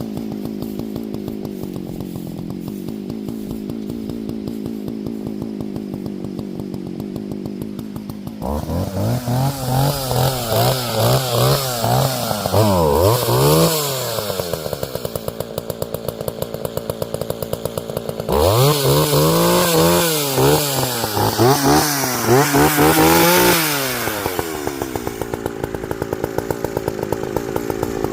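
Partner Farmer 55cc two-stroke chainsaw idling, then run up to full throttle for several seconds, twice, dropping back to idle in between, with a third rev starting near the end.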